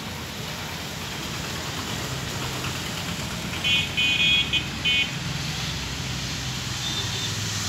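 Steady low rumble of an approaching freight train's diesel locomotive. About midway, something high-pitched toots three times in quick succession, and a short faint tone follows near the end.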